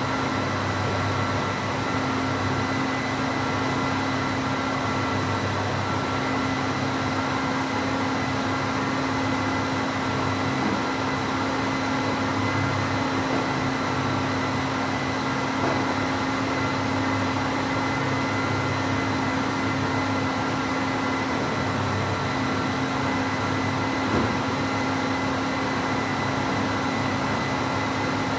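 Classic Cadillac V8 engine idling steadily while warming up, a constant low hum with a pulsing low throb, reverberant in a concrete parking garage. A few faint ticks are heard partway through.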